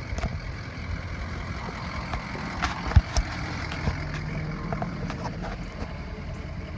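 Ford Power Stroke diesel pickup engine idling with a steady low rumble, and one loud thump about three seconds in.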